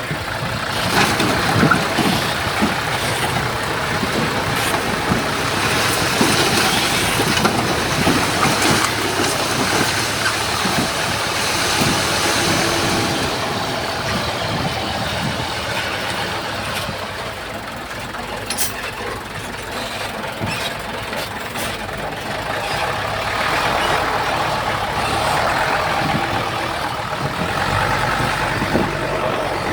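Heavy diesel engines of a bulldozer and dump trucks running at a fill site, the machinery noise swelling and easing without a break.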